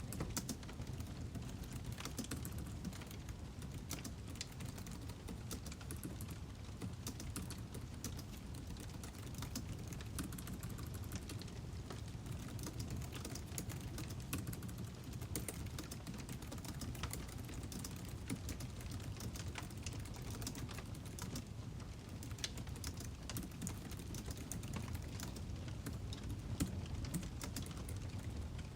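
Wood fire crackling: irregular sharp crackles and pops over a steady low rumble of burning logs.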